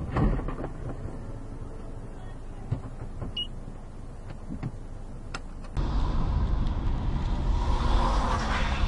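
Car road and engine noise recorded from inside a vehicle, with a few knocks and clicks. About six seconds in it cuts abruptly to louder road noise from another car.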